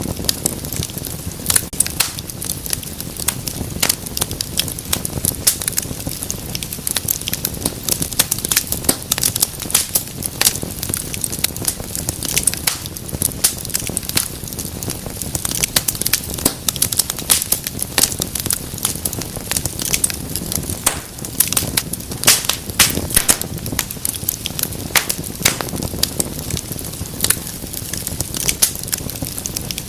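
Wood fire in a fireplace crackling and popping, with many sharp snaps a second over a low, steady rumble of flame.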